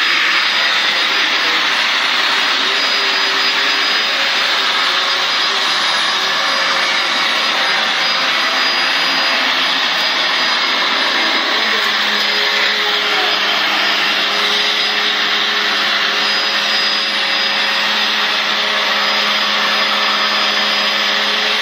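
Hoover vacuum cleaner running continuously with a loud, steady whooshing hiss over a motor hum; about halfway through the hum settles into a steadier low tone.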